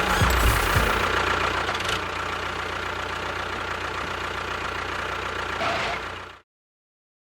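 Small motor of a DIY mini tractor running steadily, with a constant whine over it. It cuts off abruptly about six and a half seconds in.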